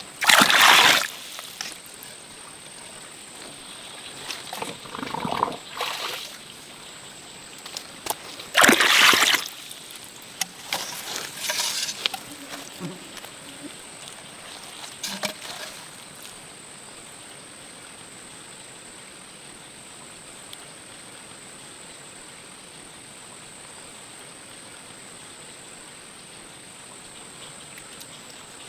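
Water splashing in several short bursts, the loudest about a second in and about nine seconds in, over a steady hiss with a faint high whine.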